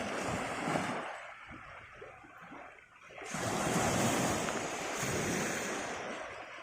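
Sea waves washing onto the shore, surging twice: once at the start and again for a few seconds from about the middle.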